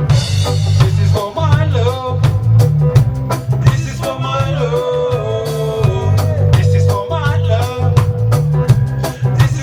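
A live lovers rock reggae band plays: a heavy, pulsing bass line and a drum kit on a steady beat, with a melody line that wavers in pitch over them.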